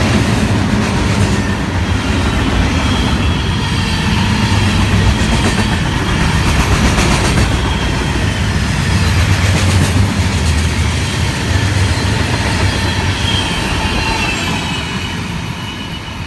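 Freight train rolling by: a steady low rumble with the clickety-clack of wheels over rail joints and faint thin wheel squeal, fading away near the end.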